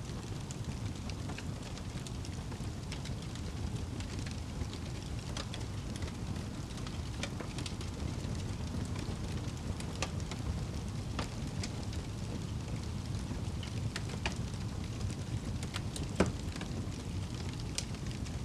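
Wood fire crackling, with scattered sharp pops over a steady low rumble and one louder pop about sixteen seconds in.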